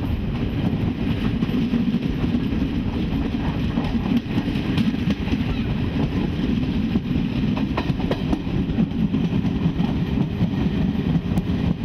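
Passenger train running at speed, heard from beside the coach: a steady low rumble of wheels on rail, with a few faint clicks about five and eight seconds in.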